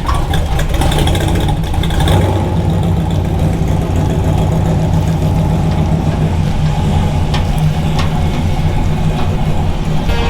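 Engine of a cammed-up Dodge Dakota running steadily at low speed, with a couple of light ticks about seven and eight seconds in.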